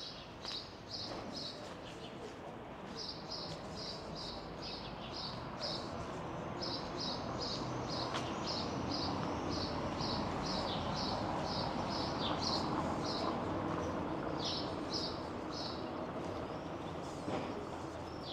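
A small bird singing, repeating one short high note about three times a second in long phrases with brief pauses, over a steady rush of street noise that grows louder through the middle and eases off again.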